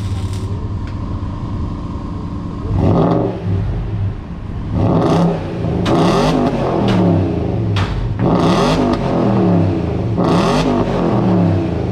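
BMW X5 4.4i's 4.4-litre V8 running through an exhaust with the resonator and both mufflers deleted and an X-pipe fitted. It hums steadily at first. From about three seconds in it is revved repeatedly, the pitch climbing and falling back about five times.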